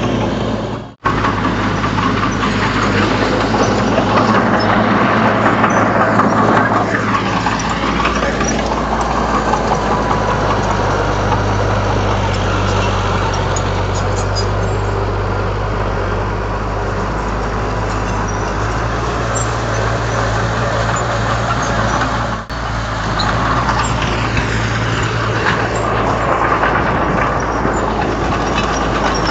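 Komatsu D31 bulldozer's diesel engine running with a steady drone, its pitch sliding up and down a few seconds in as it works. The sound cuts out for an instant about a second in and dips briefly again about two-thirds of the way through.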